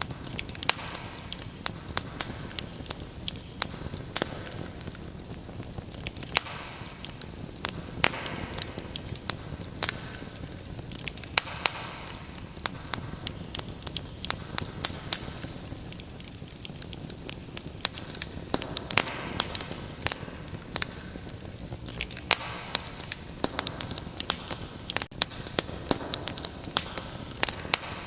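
Wood fire crackling steadily, with frequent sharp pops and snaps over a low hiss of burning.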